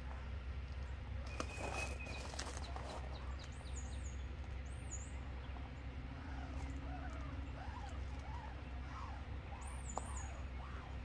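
Outdoor ambience: a steady low rumble with small birds chirping now and then in high, looping calls. There is a brief scratchy rustle about a second and a half in.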